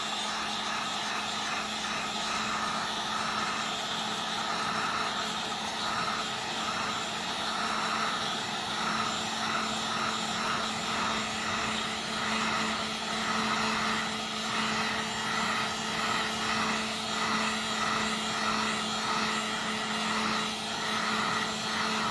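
Heat gun blowing steadily: a continuous rush of hot air over an even motor hum, warming the phone's glass to soften it before it is pried open.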